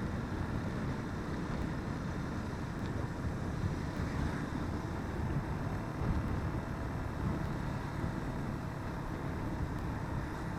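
Steady rush of wind and road noise from riding a motorcycle, a low even rumble without speech.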